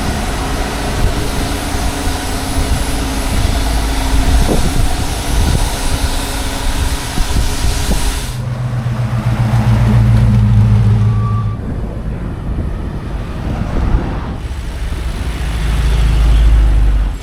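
Heavy vehicle running: a steady mechanical running noise with hiss for about eight seconds, then after a sudden change a deep low engine rumble.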